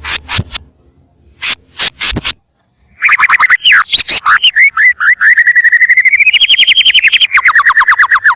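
White-rumped shama (murai batu) singing loudly: a few sharp clicking notes, then after a short pause a run of down-slurred whistles that builds into a rapid trill of about ten notes a second, climbing in pitch and stepping back down near the end.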